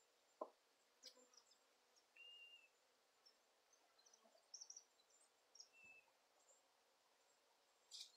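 Near silence: a few faint, short bird chirps and a couple of soft knocks from wooden hive frames being shifted in the box.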